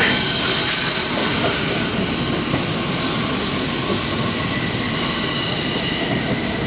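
Passenger train heard from inside the car while moving: a steady rumble of wheels on the track with high-pitched squealing tones from the wheels held over it.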